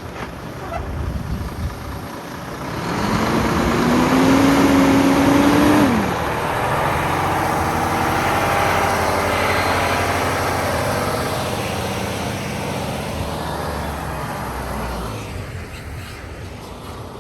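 A large truck's engine revving up and running as it manoeuvres in reverse: the pitch climbs for about three seconds, drops off, and the engine keeps running steadily before easing off near the end.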